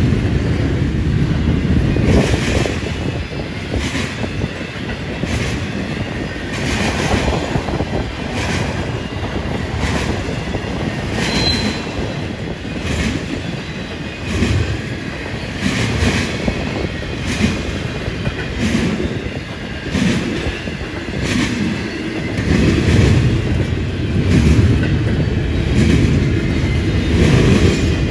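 Railroad cars rolling past close by: a steady low rumble of steel wheels on rail, with regular clicks about once a second as the wheels cross rail joints.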